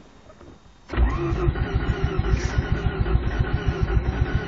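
1988 Mazda RX-7's 13B rotary engine cranking on the starter, a fast even pulsing that starts suddenly about a second in, without catching: the car has a hard-starting problem.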